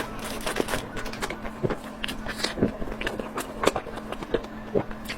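Close-miked eating sounds: chewing with irregular wet smacks and clicks, over a faint steady hum.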